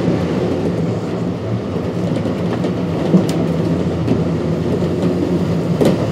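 Running sound of a Kintetsu 1249 series electric train with Hitachi GTO-VVVF control, heard from inside the car: a steady rumble of wheels and running gear with a low hum, and two sharp clacks over rail joints, the second near the end.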